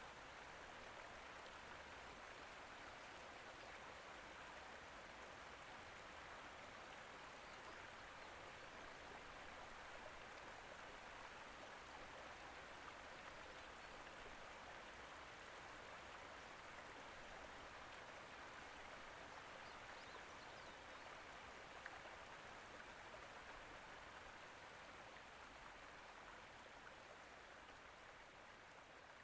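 Faint, steady rush of water, even and unbroken, with a tiny tick or two.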